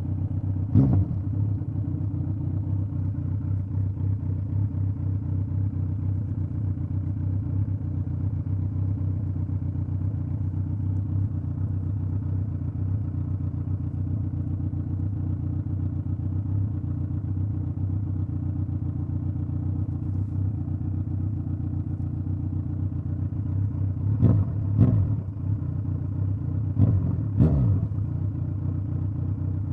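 Straight-piped Kawasaki Z900 inline-four motorcycle engine running at a steady pitch. It gives a brief rev about a second in and four quick throttle blips near the end.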